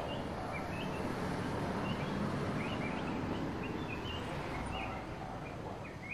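Small birds chirping, short repeated calls every fraction of a second, over steady outdoor background noise.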